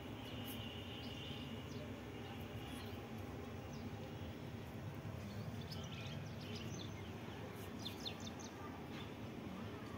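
Steady low background noise with birds chirping, most of the chirps coming in a quick cluster about six to eight seconds in.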